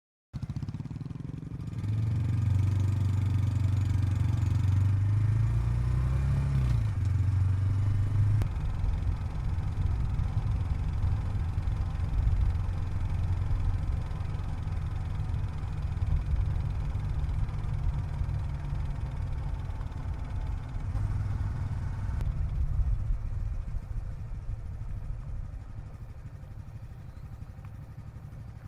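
Small 125 cc single-cylinder Honda motorcycle engine running under way, a steady low hum that wavers in pitch for the first several seconds and fades gradually near the end.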